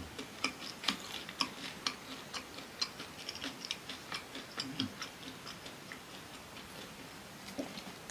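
Close-miked chewing of crispy fried cassava with the mouth closed: a run of small, sharp crunching clicks, roughly two a second.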